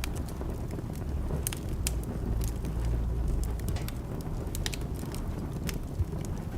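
Wood fire crackling, with sharp irregular pops over a low steady rumble of burning; one louder pop about six seconds in.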